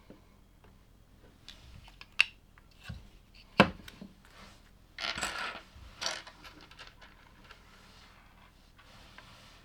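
Plastic LEGO pieces clicking and clattering as they are handled and pressed together, with sharp single clicks about two and three and a half seconds in and a brief rattle of loose pieces around five seconds in.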